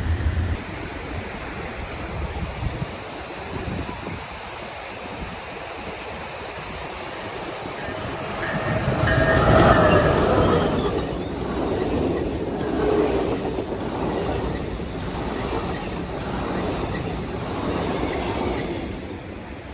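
An Amtrak Pacific Surfliner passenger train passing close by. It grows to its loudest about halfway through, then the wheels clatter rhythmically over the rails as the cars go by, fading just before the end.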